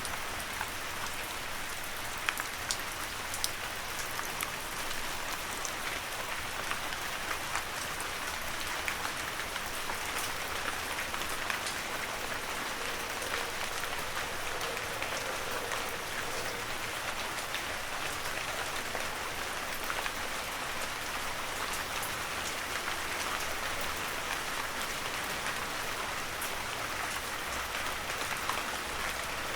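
Heavy rain falling steadily, with many sharp individual drop hits scattered through the steady hiss.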